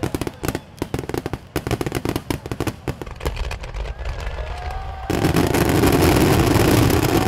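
Aerial fireworks finale: rapid, irregular crackling and popping from many bursting shells, then about five seconds in a sudden, louder, continuous barrage.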